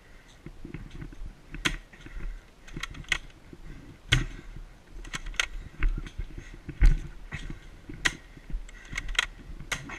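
Airsoft guns firing single shots at irregular intervals, about a dozen sharp clicking pops in all, over low rustling and handling noise.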